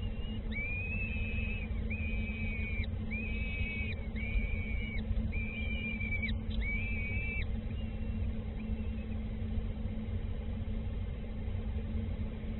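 A bird calling in a run of six drawn-out whistled notes, each just under a second long, then a few fainter ones near the end. A steady low hum runs underneath.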